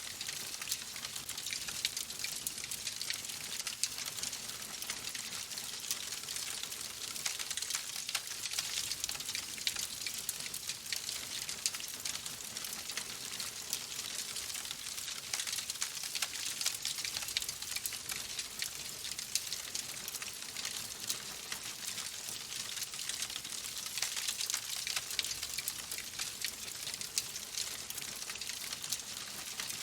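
Wood fire in a fireplace crackling steadily: a soft hiss with many small pops and snaps throughout.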